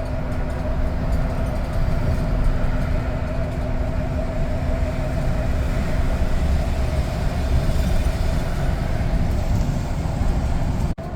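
Steady low rumble of a moving vehicle, with a constant hum that fades out about eight seconds in.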